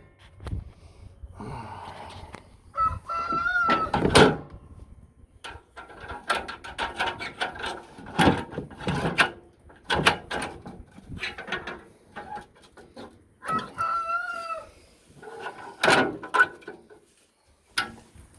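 A rooster crowing twice, about three seconds in and again about thirteen seconds in, with scattered knocks and rustling in between.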